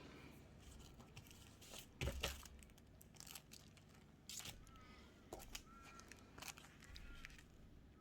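Paper being handled: sheets rustling and crinkling in short bursts, with a few sharper taps, the loudest about two seconds in.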